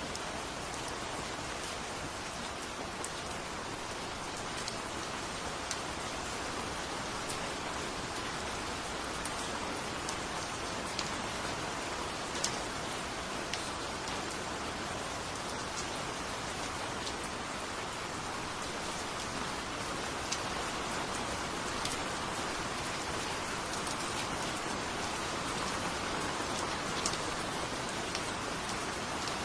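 Steady rain falling, an even hiss with scattered sharper ticks of single drops hitting a surface.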